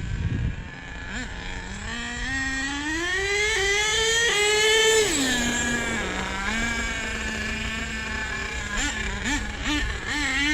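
Small nitro RC truck engine idling, then revved smoothly up over a few seconds, held briefly, and dropped back to idle about five seconds in, followed by a few quick throttle blips near the end. The tuner hears the low end of the mixture as lean.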